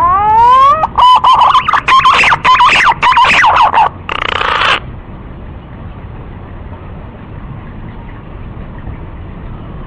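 Green pigeon calling: a rising whistle, then a run of short warbling whistled notes for about four seconds, ending in a brief rough burst about four and a half seconds in.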